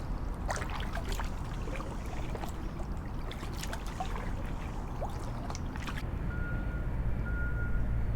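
Water trickling and dripping with many small sharp ticks over a low rumble. After about six seconds the ticks stop and a steady low hum takes over, with a faint high steady tone coming and going.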